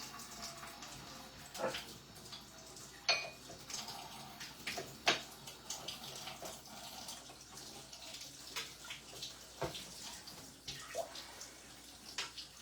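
Water running from a kitchen tap and splashing as a child washes her hands at the sink, with scattered clicks and knocks, the loudest about three and five seconds in.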